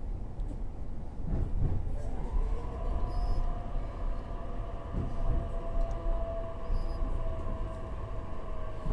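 E531 series electric commuter train running slowly at reduced speed: a steady low rumble, with a steady whine in several tones that sets in about two seconds in.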